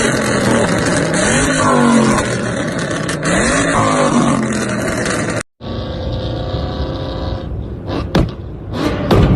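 Ford Mustang GT V8 exhaust revving, the pitch rising and falling twice. It cuts out abruptly about five and a half seconds in, and a steadier engine sound follows, with a few sharp knocks near the end.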